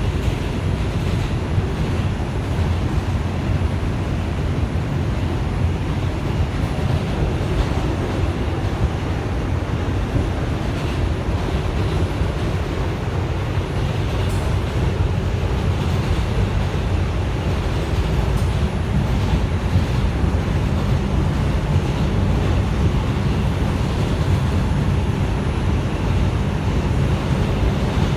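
Inside an R142 subway car running between stations: a steady low rumble of wheels on rail and car-body noise.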